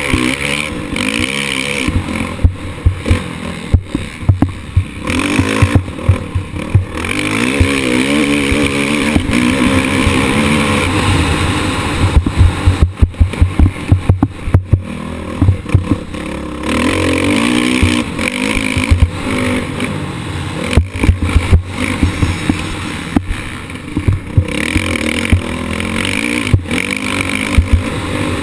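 Motocross bike engine revving up and down as it races, picked up by an onboard action camera with wind rush on the microphone. Frequent sharp knocks and clatter from the bike over the bumpy track, heaviest about halfway through.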